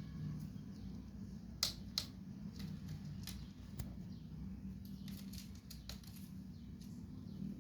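Scattered light clicks and taps at irregular intervals, the two loudest about a second and a half and two seconds in, over a steady low hum.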